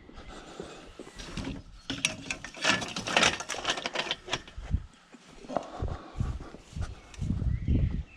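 Clattering and knocking of handled objects: a dense burst of rattling clicks from about two to four seconds in, then a few low thumps near the end.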